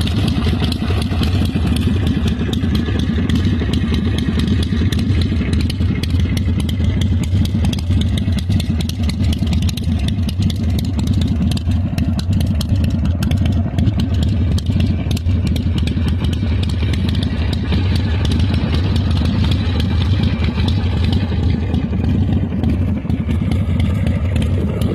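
1993 Harley-Davidson Sportster 1200's Evolution V-twin engine running steadily.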